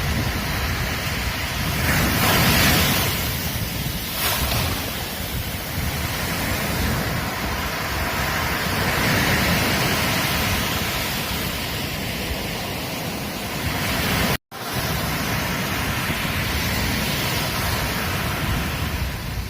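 Ocean surf breaking and washing up a beach: a continuous rush of waves that swells louder every few seconds. About fourteen seconds in, the sound drops out completely for an instant.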